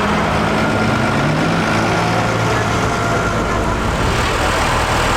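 Large tractor diesel engine running steadily, with a change in the sound about four seconds in.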